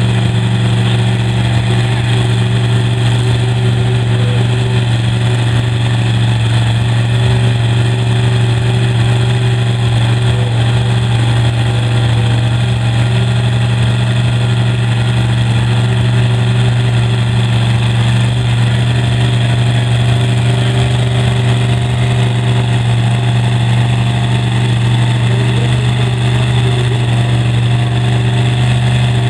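Engine idling steadily, a constant low hum with no revving.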